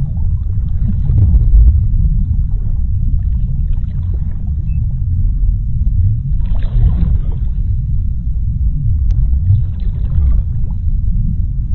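Underwater sea ambience: a steady, deep low rumble with faint crackling above it, and a brief swell of hiss about six and a half seconds in.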